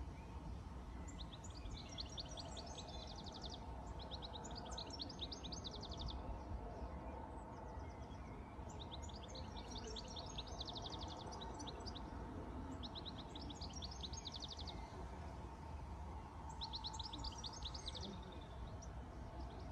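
A songbird singing five short trilled phrases, each a quick run of high repeated notes lasting about two seconds, spaced a few seconds apart, over a steady low outdoor background noise.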